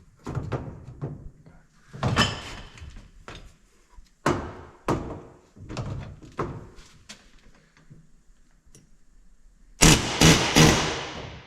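Irregular knocks and thunks of metalwork on a truck cab's sheet metal, then a loud cluster of about four hard hits in quick succession about ten seconds in.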